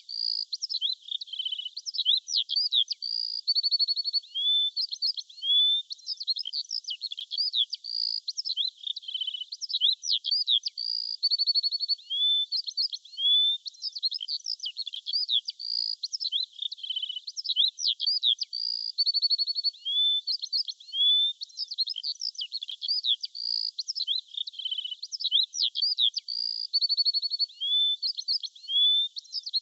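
Small songbirds chirping and trilling in quick, high-pitched, overlapping phrases, a pattern that repeats about every ten seconds like a looped recording.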